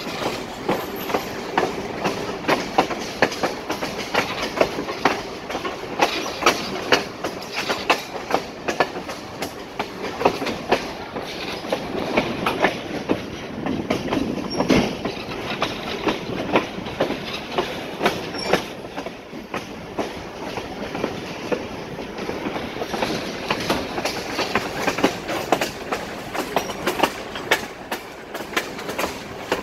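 Passenger train rolling along the track: a steady rumble of the cars with repeated sharp clacks of the wheels passing over rail joints.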